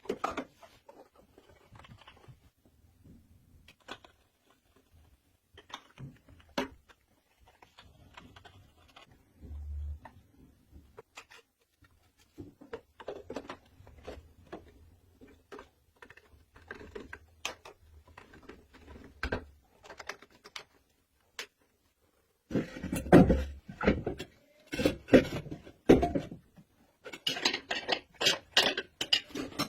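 Irregular clicks, taps and knocks of hard objects being handled, sparse at first, then louder and denser in the last seven seconds or so.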